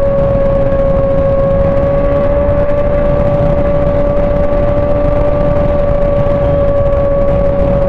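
Sport motorcycle engine held at steady high revs while cruising on the highway: a constant, unwavering whine over heavy low wind rumble on the microphone.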